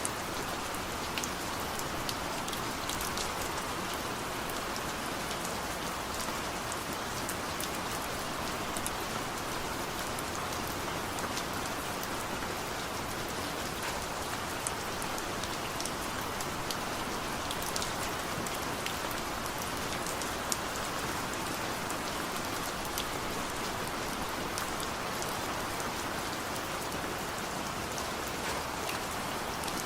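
Steady rain falling: an even hiss with many individual drops ticking sharply on a surface.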